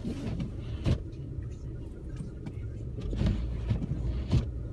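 Car moving slowly, a steady low rumble heard inside the cabin, with two short knocks, about a second in and near the end.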